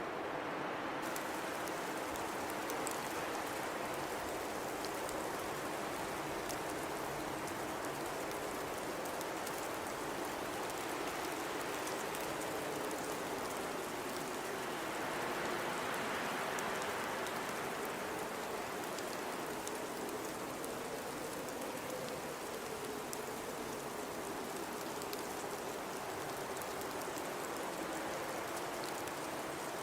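Blizzard wind blowing steadily, with a faint low howl that wavers in pitch and a swell about fifteen seconds in. Faint scattered ticks sound throughout.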